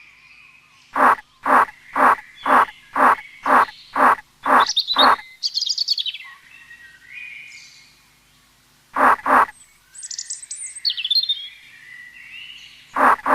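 Bird calls: a run of eight loud, harsh calls about two a second, followed by high, rapid trilling. Two more calls and another trill follow, and two calls come near the end.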